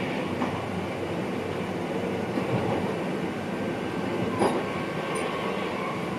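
Running noise heard inside the driver's cab of an NS VIRM double-deck electric train: a steady rumble of wheels on rail, with a few short sharp knocks from the track, the loudest about four seconds in.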